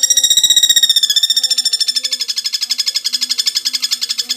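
Velvet-fronted nuthatch (pelatuk bawang) singing a tight, rapid trill: a continuous stream of sharp, high chirps repeated many times a second without a pause.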